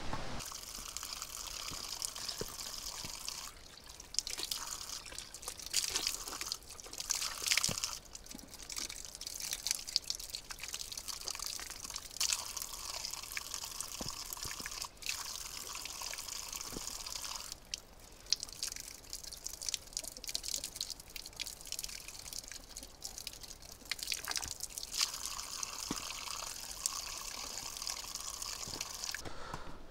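Heavy rain falling, a steady hiss of water with scattered drips and sharp ticks; it breaks off and resumes abruptly several times.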